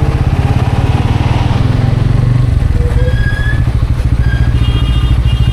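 Bajaj Pulsar N160's single-cylinder engine running steadily under way at highway speed. A few short high tones come in over it during the second half.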